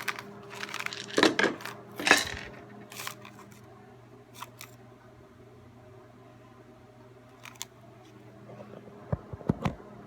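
Dry grains poured into a cardboard paper-towel tube: a dense rattle of small hard clicks in the first couple of seconds, then scattered ticks, with a few louder clicks and knocks near the end.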